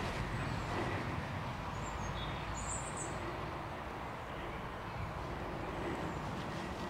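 Quiet outdoor ambience with a steady low rumble, and a small bird giving a few short, high chirps about two to three seconds in.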